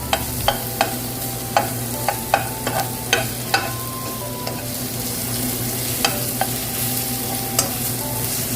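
Garlic and ginger sizzling in hot olive oil in a pan while being stirred, with a utensil tapping and scraping against the pan many times in the first half and now and then after.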